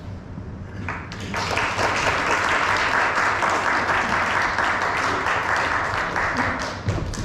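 An audience applauding, starting about a second in and easing off near the end.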